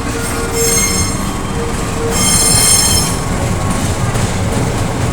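Passing train rumbling along the track, with two bursts of high-pitched wheel squeal, the first about half a second in and a louder one around two seconds in.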